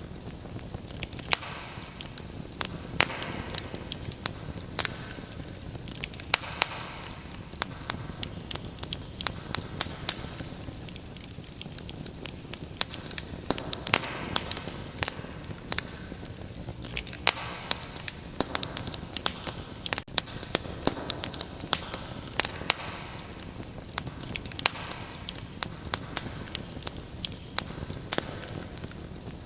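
Wood fire crackling: irregular sharp pops and snaps over a steady low hiss, with gentle swells of flame rustle every few seconds.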